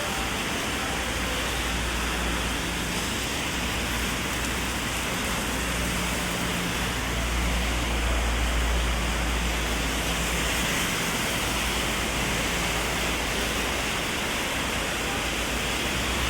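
Heavy rain falling steadily on an umbrella and the wet street, a dense unbroken hiss. A low rumble of city traffic swells a little between about six and ten seconds in.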